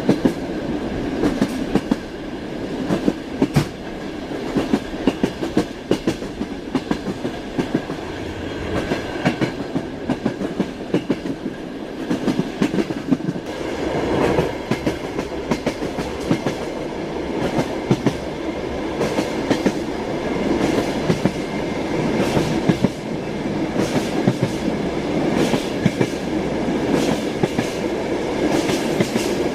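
Railway carriage wheels knocking over rail joints, clusters of sharp clicks repeating again and again over the steady rumble of a train running along the track.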